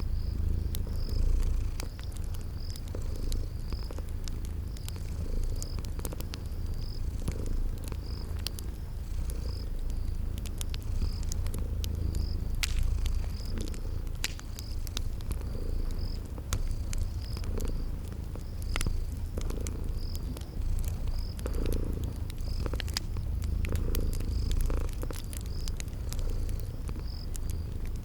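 Cat purring steadily in a low rumble. A cricket chirps about once a second, and a wood fire gives scattered crackles.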